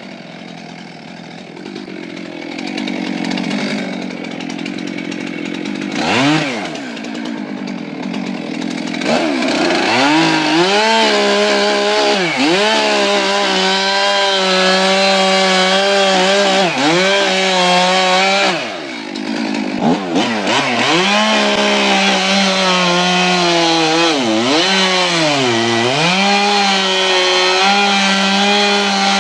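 Chainsaw engine running. It is lower for the first few seconds, revs up about six seconds in, and from about ten seconds in holds at high revs, its pitch sagging briefly several times as it comes under load in the cut.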